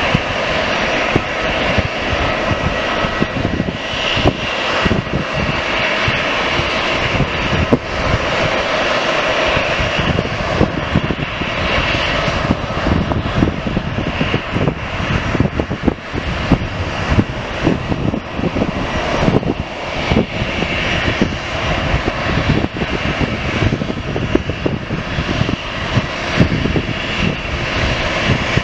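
Aircraft engines running loudly and steadily, with no clear rise or fall in pitch.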